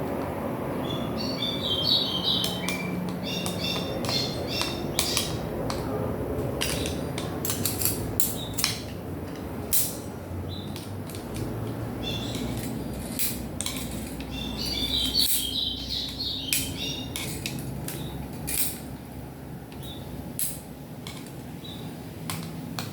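Scattered sharp clicks and clinks of small metal parts and screws being handled while a Philips stereo is taken apart, over a steady low hum. A bird chirps in two bursts of quick high notes, near the start and around the middle.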